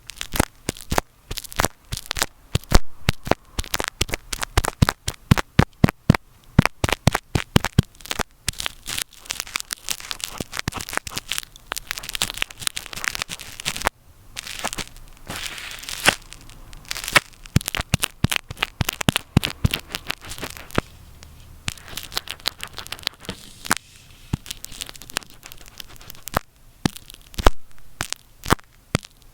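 Earphones used as a microphone being handled vigorously close up: rapid, irregular sharp clicks and crackles, broken by rough scratching and rubbing rushes.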